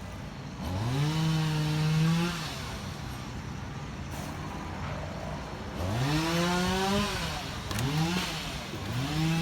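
An engine revved up four times, its pitch sweeping up and holding: two long revs, then two short quick ones, over a steady lower running note.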